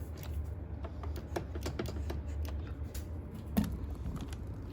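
Irregular plastic clicks and taps from handling the underside parts of a Xiaomi Mi Robot Vacuum, with one louder knock about three and a half seconds in, over a low steady hum.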